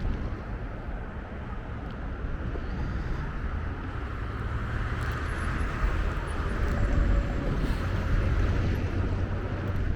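Steady low vehicle rumble, growing a little louder in the later seconds.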